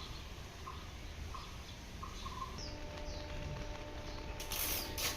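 A bird calling: a short note repeated evenly, about once every 0.7 seconds, through the first half, then a few higher falling chirps. Bursts of hiss come in near the end.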